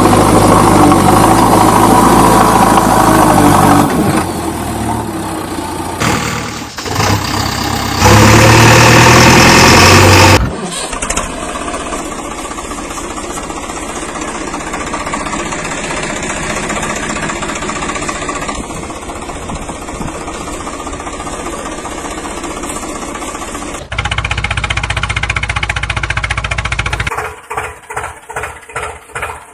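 Diesel engines of a JCB 3DX backhoe loader and tractors running, in several clips joined by abrupt cuts. The engine note grows louder at times, and near the end there is a slow, even pulsing of about two beats a second, like an engine idling.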